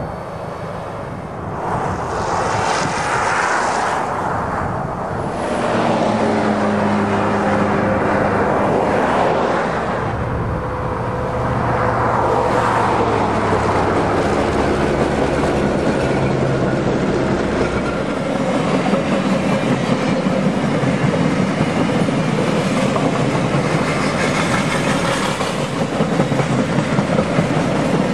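Alaska Railroad freight train passing close by. The diesel locomotives' engines are heard through the first half, then a long steady rumble of wheels on the rails as the flatcars roll past.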